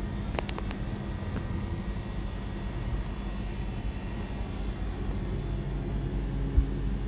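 Vehicle engine idling, a steady low rumble with a faint hum, heard from inside the car, with a few light clicks about half a second in.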